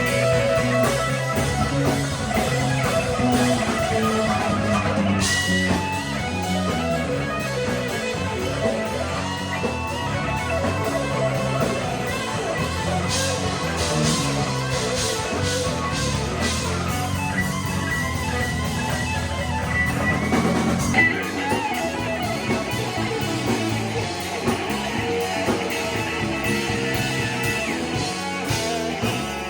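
Rock band playing an instrumental passage led by electric guitar, with drums underneath.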